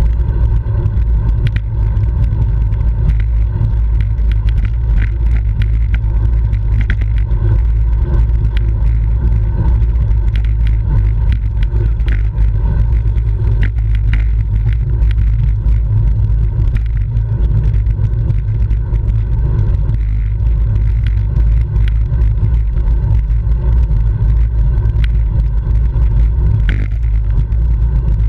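Wind buffeting the microphone of a camera riding on a moving road bicycle: a loud, steady low rumble, with many small clicks and ticks scattered through it.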